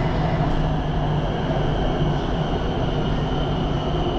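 Elevated electric train running, heard from inside the car: a steady rumble with a constant low hum and a faint high whine.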